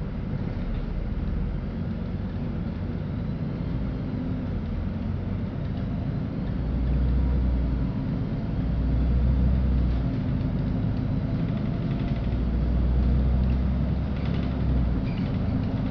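Cabin sound of a LiAZ-5292.65 city bus under way: the diesel engine's low rumble and road noise, swelling three times as the engine pulls harder.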